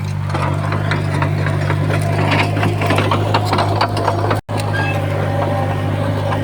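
Komatsu D20P bulldozer's diesel engine running steadily, with a scatter of sharp clicks and rattles over it. The sound cuts out for an instant about four and a half seconds in.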